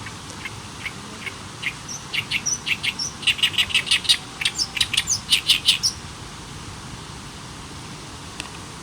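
A bird calling in a series of short, sharp, nervous-sounding notes that start slowly and quicken to about four or five a second, then stop about six seconds in. Strong wind rushes steadily through poplar leaves underneath.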